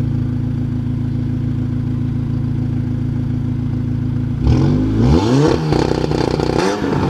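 Car engine running at a steady speed, then revved up and down several times from about four and a half seconds in.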